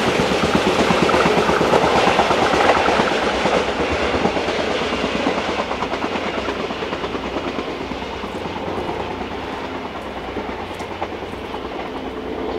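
Limited express electric train running away down the line, its wheels rumbling and clicking over the rail joints, the sound fading steadily as it recedes.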